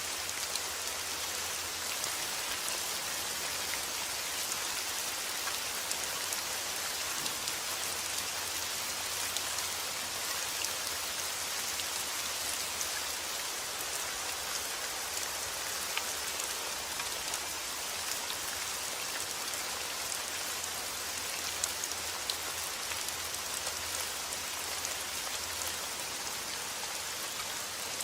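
Steady rain, an even hiss made of many small drops ticking on a surface.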